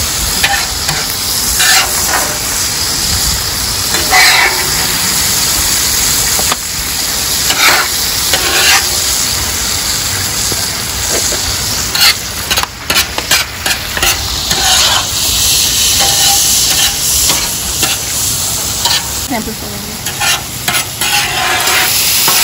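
Steak, shrimp and chicken sizzling on a hot flat-top griddle, with a metal spatula scraping and clacking against the steel cooking surface in quick strokes, busiest in the middle and near the end.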